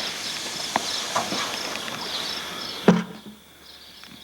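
Steady, rhythmic high chirping of insects over background hiss, with a few light knocks. About three seconds in comes a single sharp thump, after which the hiss drops away while the chirping goes on.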